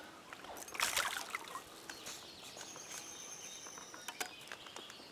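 Water splashing briefly about a second in as a hooked brown trout is lifted from the stream, with small clicks and rustles of handling. A thin, high, steady note runs for about two seconds in the middle.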